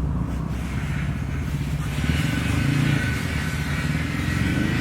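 Engine running steadily with a low, even throb.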